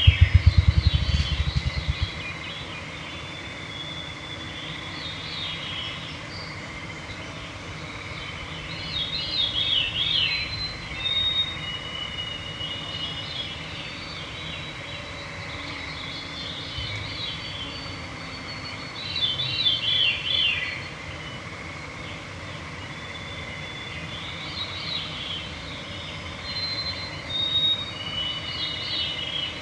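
Songbirds singing in turn every few seconds, several of their phrases sliding downward, over a faint steady hum. During about the first two seconds a run of rapid, loud low thumps fades away.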